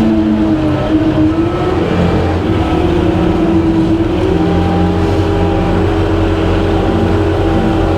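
Skid steer engine running at high throttle, driving a Jenkins 6-foot standard-flow hydraulic brush hog cutting grass. A steady, loud hum whose pitch dips a little about a second in and rises again around four seconds in.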